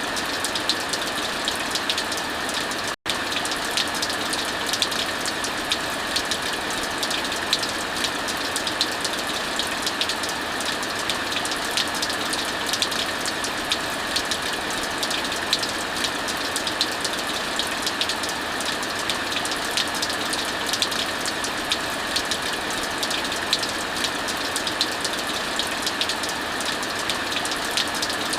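Heavy rain falling steadily as a dense, even hiss, mixed with a fireplace fire crackling, with many small sharp pops throughout. The whole sound cuts out for an instant about three seconds in.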